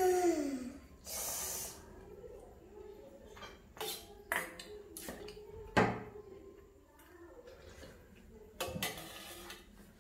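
Scattered clicks and knocks of dishes and utensils while eating, the sharpest about six seconds in. A brief falling voice sound opens it and a short breathy hiss follows.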